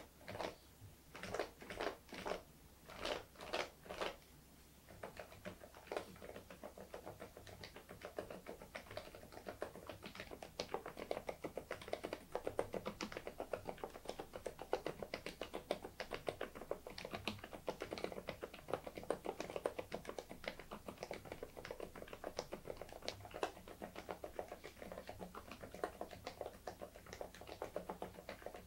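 Interpixel IPK104 PRO full-size keyboard with Leobog Cotton Candy silent switches being typed on: a few single keystrokes about two a second, then steady continuous typing from about five seconds in.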